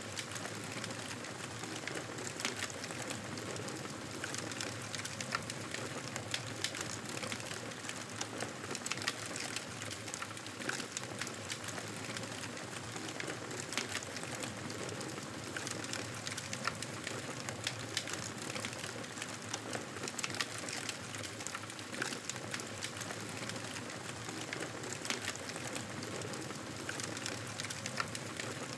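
Campfire burning with a steady hiss and frequent irregular sharp crackles and pops.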